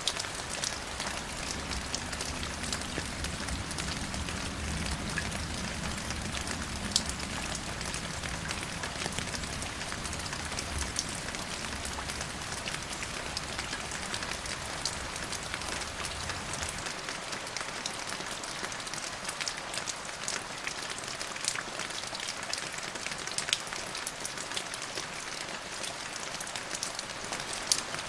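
Steady rain falling on a surface, with scattered louder drops ticking through the hiss. A low rumble underneath stops about two-thirds of the way through.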